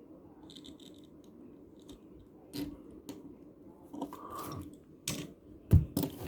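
Small die-cast toy cars and their packaging handled on a tabletop: scattered light clicks and taps, growing into a few sharper knocks in the last couple of seconds.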